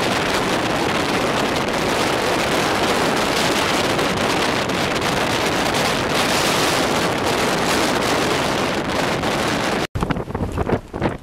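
Blizzard wind buffeting the microphone: a loud, steady rush of noise. About ten seconds in, it cuts sharply to a gustier stretch that rises and falls in bursts.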